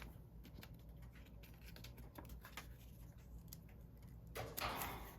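Faint handling of paper and cardstock on a craft table: scattered light ticks and taps, then a short rustle near the end.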